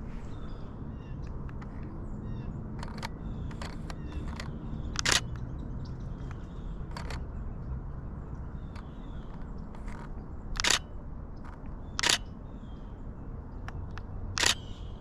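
Canon Rebel T7i DSLR shutter firing in short bursts of clicks, several lighter ones in the first few seconds and louder ones about five, eleven, twelve and fourteen seconds in. Faint high chip calls of small birds sound throughout.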